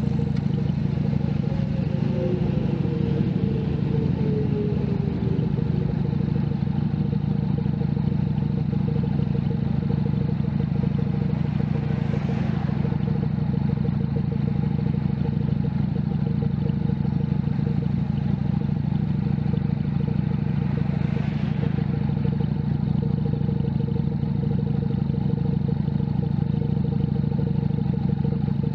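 Junak M11 Cafe's 125 cc single-cylinder engine running at a steady pace while riding, heard from on board. A tone falls in pitch over the first few seconds, and two brief whooshes pass about twelve and twenty-one seconds in.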